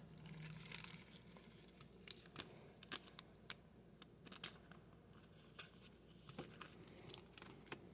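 Faint, scattered clicks and rustles of trading cards being slid off the stack and flipped through by hand.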